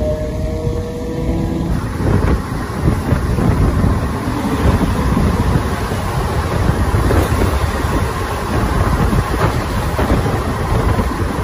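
MEMU electric train picking up speed. A rising motor whine stops about two seconds in, then a steady loud rumble and clatter of the wheels on the track.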